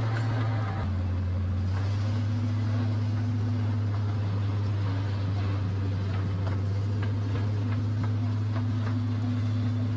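Miniature zoo train running steadily, heard from aboard: a steady low engine drone that shifts slightly in pitch about a second in, with faint clicks over it.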